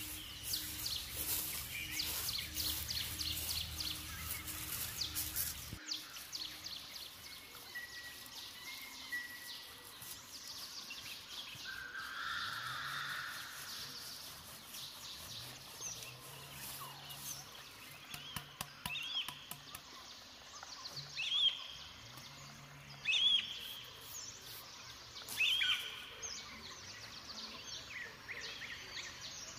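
Forest ambience with birds calling; a few short, sharp calls in the second half are the loudest sounds. The first few seconds hold a dense rapid ticking over a low hum, which cuts off abruptly about six seconds in.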